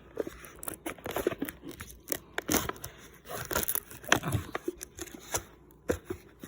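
Wrapper of a ramen cup being cut and torn open by hand, with irregular crinkling and crackling.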